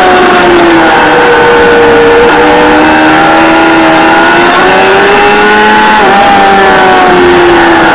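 Kawasaki ZXR400's inline-four engine running at high revs on track, recorded on board. The engine note falls and rises with the throttle and has two brief dips in the second half.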